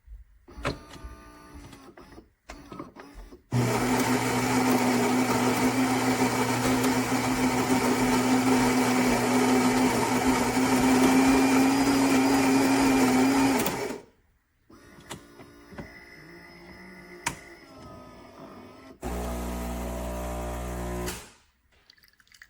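Philips fully automatic espresso machine brewing: its built-in burr grinder runs as a loud steady whir for about ten seconds, then quieter brewing noises follow, and near the end the pump buzzes for about two seconds.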